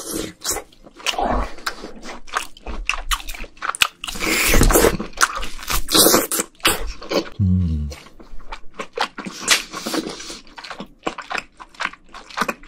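Close-miked biting and chewing of rare-grilled Korean beef (hanwoo): rapid, irregular clicking and wet mouth sounds, with a brief low hum from the eater about halfway through.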